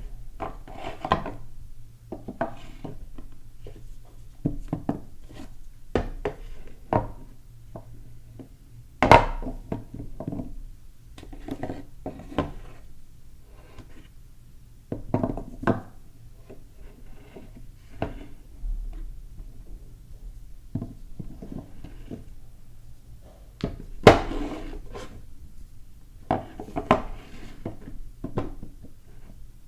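Hands unpacking and handling bars of soap: brief rustles of wrapping, with irregular taps and knocks of the bars and packaging on a hard surface. Two sharp knocks stand out, about nine seconds in and near twenty-four seconds.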